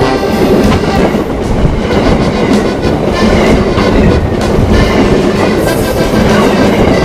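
Electric-hauled freight train passing close by: a steady, loud rolling rumble with wheels clattering over the rail joints.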